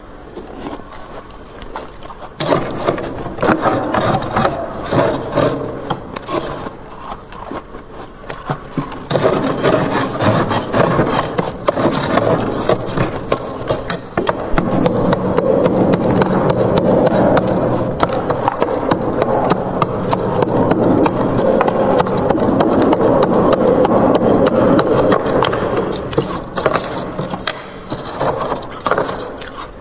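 Frost built up inside a freezer being scraped off, a dense crackling scrape that grows louder and steadier about nine seconds in.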